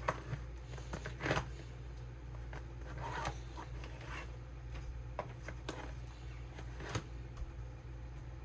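Plastic craft storage cases being handled: scattered rustles, scrapes and light clicks, with louder crinkling bursts about a second in and around three seconds in. A steady low hum runs underneath.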